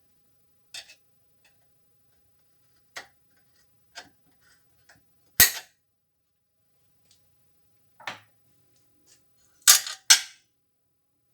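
Irregular clicks and knocks of tools and machine parts being handled during washing-machine reassembly. The loudest is a sharp knock about five and a half seconds in, with two more in quick succession near the end.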